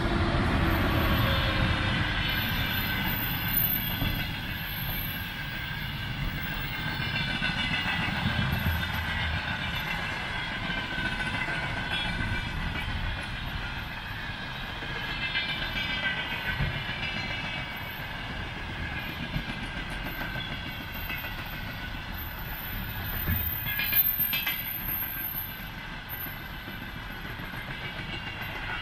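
A container freight train rolling past, its wheels clattering on the rails, with a high steady ringing over the rumble. There is a sharp knock about 24 seconds in.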